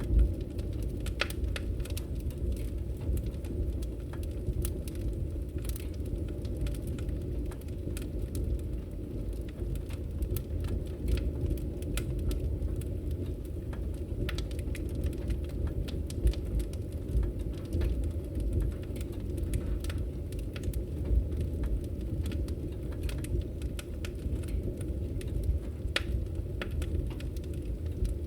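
Wood fire burning in a fireplace: a steady low rumble of flames with scattered crackles and pops, the loudest pop just after the start and another about halfway through.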